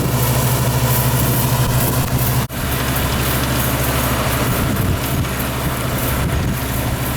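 Yanmar combine harvester's engine running with a steady low drone. It cuts out abruptly for an instant about two and a half seconds in, then carries on.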